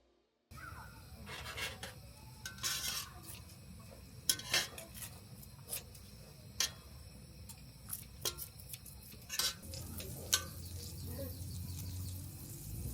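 Irregular sharp clinks and knocks of kitchenware being handled, some nine in all. A low steady hum comes in about ten seconds in.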